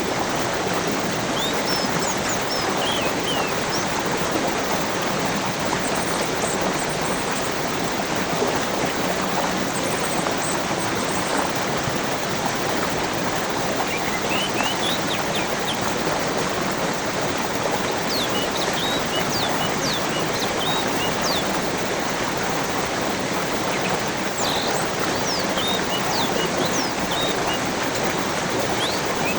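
Steady rush of flowing water, with small birds giving short, high chirps now and then above it, more often in the second half.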